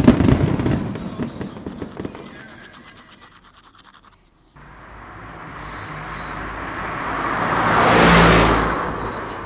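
Two edited-in sound effects. The first is a sudden loud, rough burst that fades away over about four seconds. The second is a swelling whoosh-like sound that starts a little past halfway, builds to a peak near the end and then eases off.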